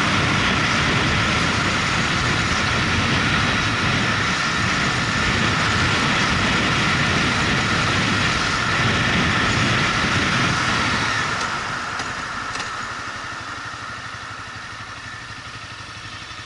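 Motorcycle engine running while riding, mixed with wind and road noise. About two-thirds of the way through, the sound grows quieter and stays lower.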